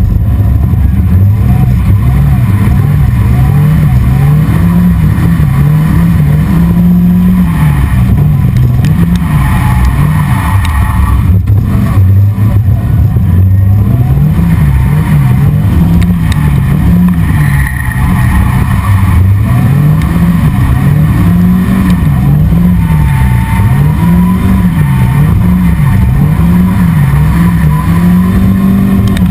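Drift car's engine heard from its open cockpit, revving up and falling back over and over, about once every one to two seconds, as the driver works the throttle through drifts around cones.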